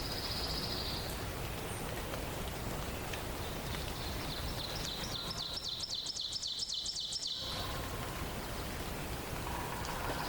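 Songbird giving a short high phrase near the start, then a fast, high trill of evenly repeated notes lasting about two and a half seconds, over a steady hiss of forest ambience.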